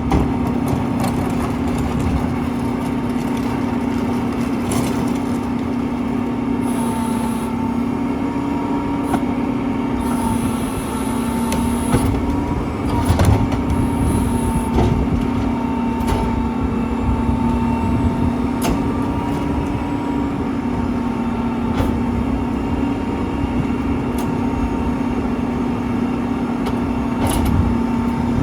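Mack LEU rear-loader garbage truck running steadily with a constant whine, with scattered knocks and clanks and a few short hisses of air.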